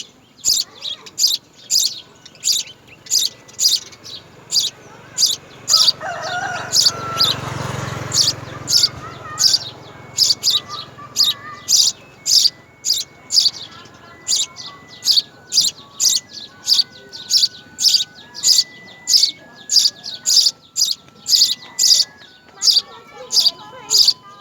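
House sparrow chirping over and over, a short high chirp about twice a second. A louder rushing noise swells and fades about six to nine seconds in.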